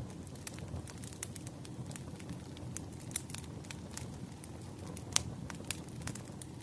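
Wood fire crackling: a steady low rumble of burning logs with many irregular sharp snaps, and one louder pop a little after five seconds in.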